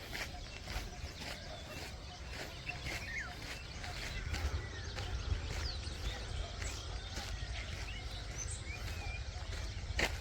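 Many small birds chirping and calling around a walker, over his steady footsteps, with a low rumble of wind or handling on the microphone.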